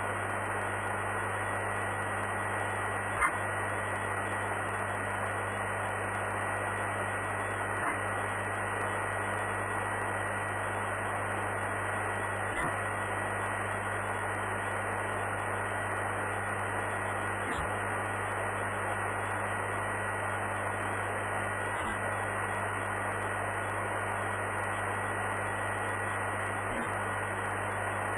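Steady hiss and static of an air traffic control radio feed with no one transmitting, carrying a faint steady high tone and a faint click about every five seconds.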